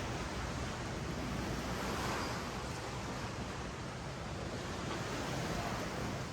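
Ocean waves washing up a sandy beach, a steady rush of surf that swells a little about two seconds in, with some wind on the microphone.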